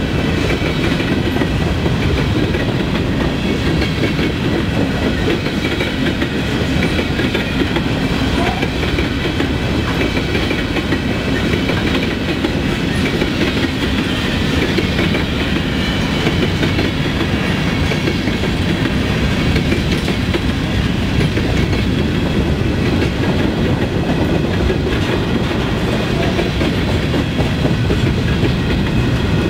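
Freight train of covered hopper cars rolling past at steady speed: a continuous rumble of steel wheels on rail, with faint high ringing tones over it.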